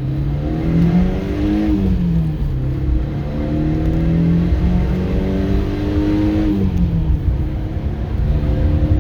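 1980 Porsche 924's 2.0-litre EA831 inline-four accelerating hard through the gears: the revs climb, fall sharply at a gear change about 1.7 s in, climb again through a longer pull and fall at a second shift near 6.6 s. The engine pulls smoothly, with its rebuilt distributor's mechanical advance no longer gummed up.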